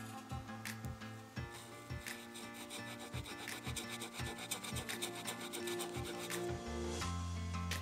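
Swiss Army knife saw blade sawing through a peeled green wood stick in quick back-and-forth strokes, a dry rasping rub of teeth on wood.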